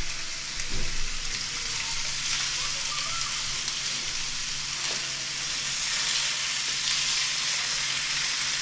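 Fish frying in hot oil in a pan on the stove: a steady sizzle with a few faint pops.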